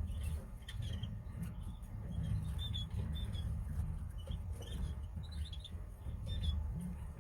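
Canaries giving many short, high, squeaky chirps in quick scattered bursts, over a steady low rumble.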